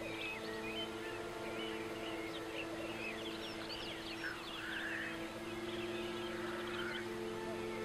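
Many birds chirping and singing in quick, short rising and falling notes, with a noisier call near the middle, over a bed of steady held low tones.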